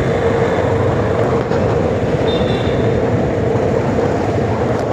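Motorcycle running steadily at road speed, its engine note mixed with wind and road noise rushing past the rider's microphone.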